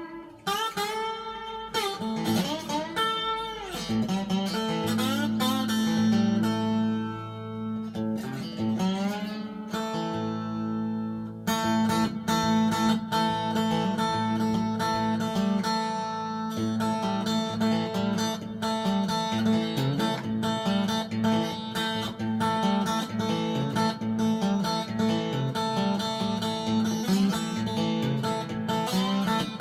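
Homemade three-string electric guitar with a single-coil pickup, played with a slide through a small Marshall MG 15-watt practice amp with a little reverb. It opens with gliding notes, then settles into a steady rhythmic riff about twelve seconds in.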